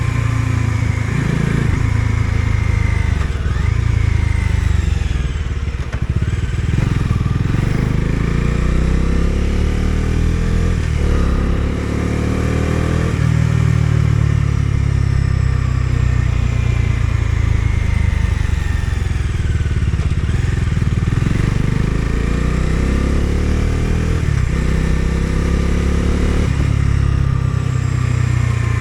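Bajaj Dominar 250 single-cylinder engine running under way, its pitch repeatedly climbing and dropping back as the rider accelerates and shifts through the gears.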